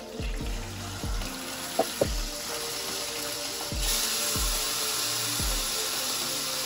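Chicken pieces and coiled sausage sizzling in a stainless frying pan, the sizzle getting much louder about four seconds in, with two sharp clicks about two seconds in. Background music with a steady beat plays throughout.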